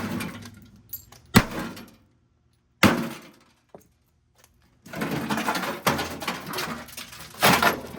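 A microwave oven being smashed apart: three sharp blows in the first three seconds, each followed by a brief rattle, then a longer stretch of crashing and clattering as parts break.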